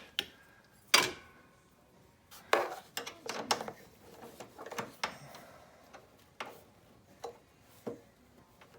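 Hand tools, a wrench and an Allen key, clinking and knocking against a metal bolt and bracket while the engine damper's mounting bolt is fitted. It is a string of sharp, irregular clinks, the loudest about a second in.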